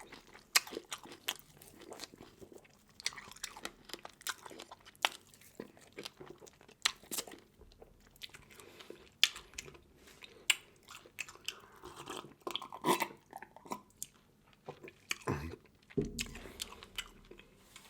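Close-up eating sounds: crunching and chewing seafood, with many sharp, irregular cracks and crunches and a few duller thumps near the end.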